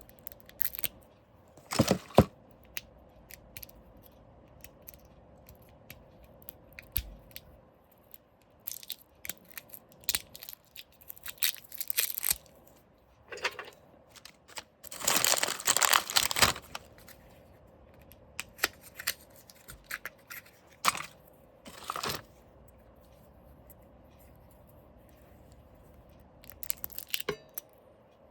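Packaging being handled and unwrapped: intermittent tearing and crinkling bursts mixed with small clicks and taps, the longest bout of rustling a little past the middle.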